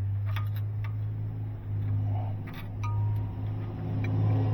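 Light metallic clicks and ticks of hand tools working on a diesel engine's Jake brake and valve adjusters, over a steady low hum that swells and fades.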